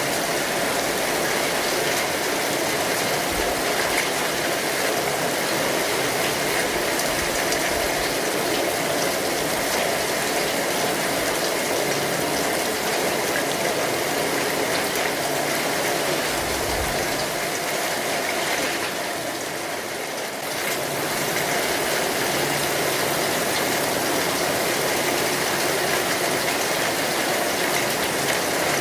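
Steady rain falling on an umbrella overhead, an even hiss that dips slightly for about a second two-thirds of the way through.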